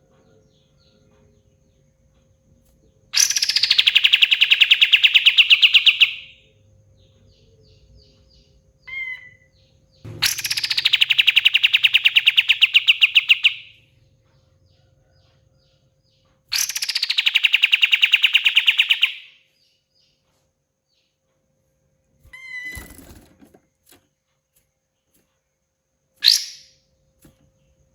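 A kapas tembak songbird giving three long, loud, fast rattling trills of about three seconds each, each opening with a quick downward sweep, with short chirps in the gaps between.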